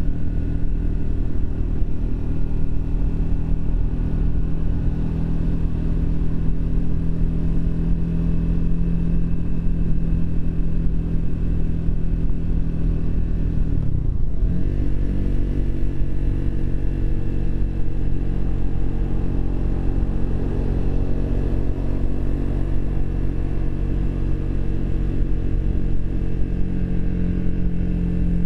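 Triumph Speed 400's single-cylinder engine running steadily under way. About halfway through, the revs dip sharply for a moment and pick up again.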